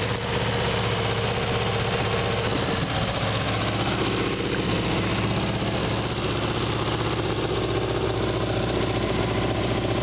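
MG donor car's engine idling steadily.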